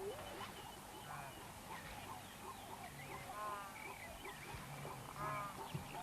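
A chorus of wild animal calls: many short, honk-like calls overlapping throughout, with two louder drawn-out calls a little after three seconds and again about five seconds in.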